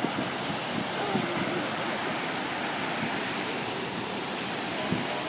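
Steady rush of water pouring down a cascade, swollen by rain.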